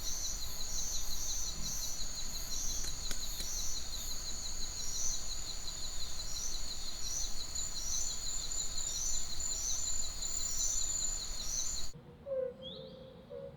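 Outdoor nature soundscape: a steady, high, fast-pulsing trill with repeated chirps over it, from calling insects and birds. About twelve seconds in it cuts abruptly to a quieter scene of separate short bird chirps and a lower repeated call.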